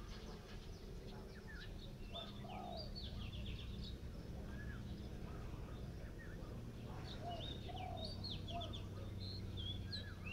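Birds chirping and calling: quick high notes and short glides in two busy clusters a few seconds apart, over a steady low background hum.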